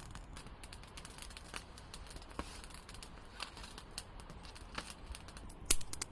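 Wood campfire crackling: irregular sharp pops and snaps over a faint steady hiss, with one louder pop about five and a half seconds in.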